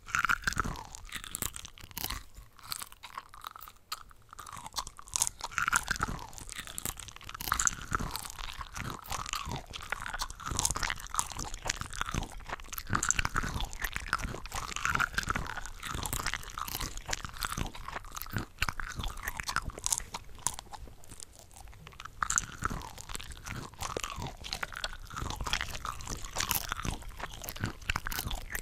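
Close-miked chewing and biting of cocktail shrimp, several eating tracks layered over one another, giving a dense, continuous stream of overlapping crunchy and wet mouth sounds.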